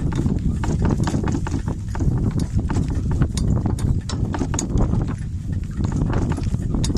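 Donkey walking, its hoofbeats coming as an uneven run of sharp steps, with heavy wind rumble on the microphone.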